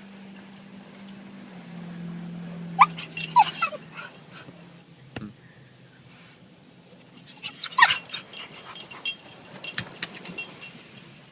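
A dog whining and yipping in two short bouts, about three seconds in and again around eight seconds in, over the steady hum of automatic car wash machinery.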